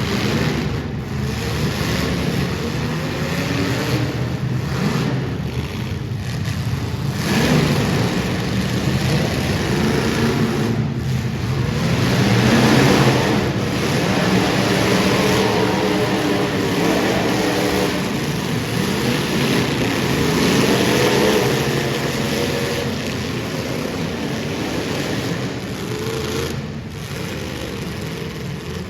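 Super stock race car engines running at full throttle on a dirt oval, their pitch rising and falling again and again as they power through the turns and down the straights.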